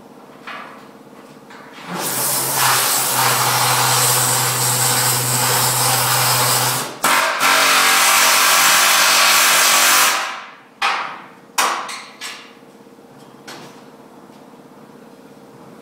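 A loud, harsh rushing noise from a power tool working in a metal workshop: one run of about five seconds, a short break, a second run of about three seconds, then four short bursts.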